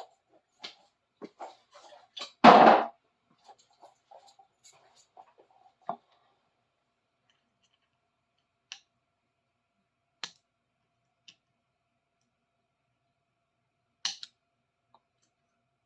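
Scattered small clicks and taps of hand tools working on an old adjustable wrench, with one louder clatter about two and a half seconds in and only a few isolated clicks after about six seconds.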